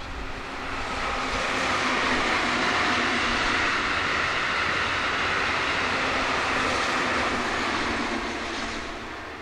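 A JR conventional-line train passing at over 100 km/h. It makes a steady, broad noise that builds about a second in, holds for about seven seconds and dies away near the end.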